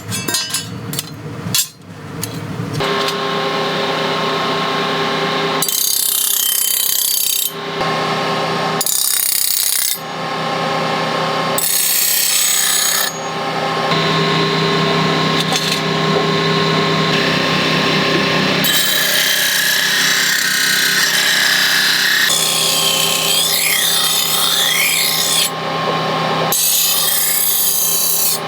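A few sharp metal clinks, then a power grinder running steadily on steel tool blades, a sharpening or polishing pass. A bright grinding hiss comes and goes every few seconds as the steel is pressed to the wheel and lifted off.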